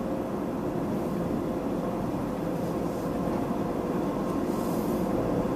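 A steady mechanical drone with a faint steady hum in it, growing slightly louder: a car moving slowly at an express car wash, with its engine and the wash machinery running.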